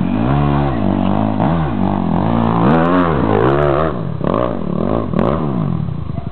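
Dirt bike engine revving in repeated surges, its pitch climbing and dropping again and again as the throttle is worked hard under load on a steep dirt hill climb.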